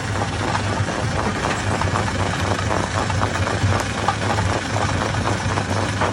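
Hammer-type stone crusher running, a steady low hum under a dense, irregular clatter of knocks as rock is broken.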